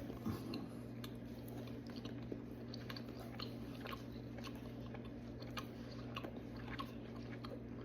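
Someone chewing a chocolate-and-caramel candy bar: faint, scattered mouth clicks over a steady low hum.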